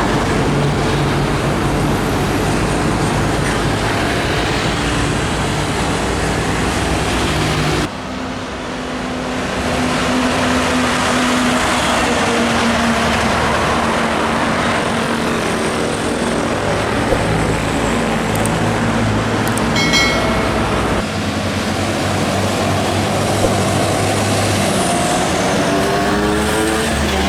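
Heavy diesel trucks running and passing on a road, the engines' low drone holding a steady pitch with an abrupt change about eight seconds in. Near the end an engine revs up, rising in pitch.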